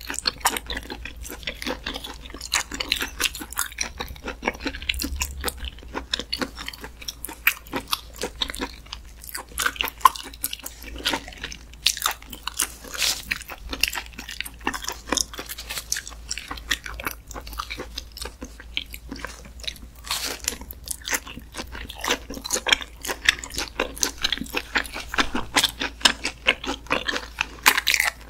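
Close-miked chewing of raw Muscovy duck meat: a steady run of wet, irregular smacks and clicks of the mouth working through chewy slices.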